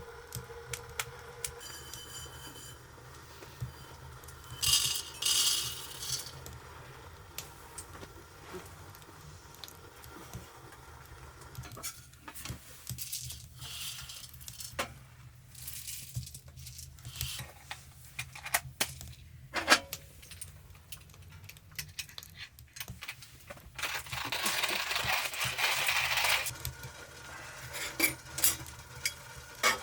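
Cooking sounds: metal utensils clinking and scraping against pots, pans and dishes in scattered, irregular strokes, with food sizzling in a pan. A few seconds of louder hissing come about two-thirds of the way through.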